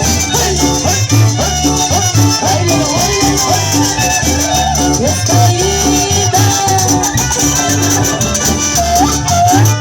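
Chanchona band playing an instrumental passage: a sliding melody line over a steady bass and rhythm.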